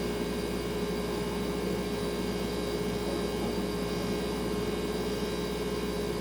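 Refrigerator running with a steady hum: one constant tone over a low, even rumble and faint hiss.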